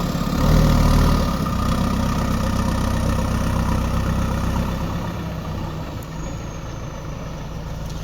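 Heavy diesel engine running at a work site. It swells louder about half a second in, holds a steady rumble, and eases off a little after about five seconds.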